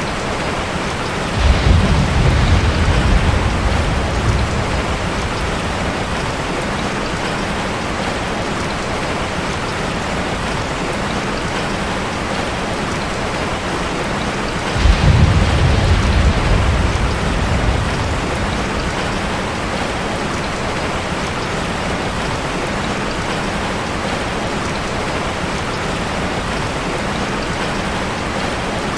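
Steady rain on a metal roof, an even hiss throughout. A low rumble of thunder breaks in suddenly about a second and a half in and fades over a few seconds, and a second one follows about fifteen seconds in.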